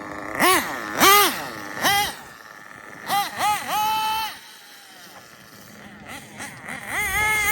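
RB sealed-backplate CE nitro engine in an RC drag car revving in quick throttle blips, each rising and falling in pitch: about five blips in the first four seconds, the last held a little longer. It drops to a quieter idle, then revs up and holds higher near the end.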